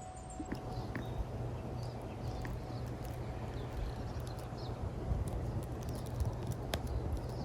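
Woodland ambience: a few faint, short bird chirps over a steady low rumble, with scattered light clicks.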